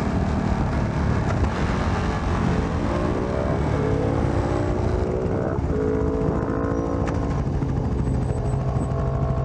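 Motorcycle engine accelerating, its pitch climbing and stepping at gear changes about four and five and a half seconds in, then holding steady, over constant wind rush at riding speed.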